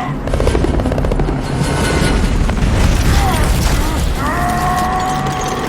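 Dense action-film sound mix: a loud low rumble with booming impacts and mechanical clatter. A steady held tone comes in about four seconds in.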